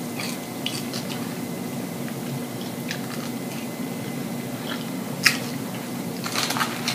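Close-up mouth sounds of a person chewing a mouthful of ketchup-covered french fries: soft, wet chewing with scattered clicks and one sharp smack about five seconds in. A steady low hum runs underneath.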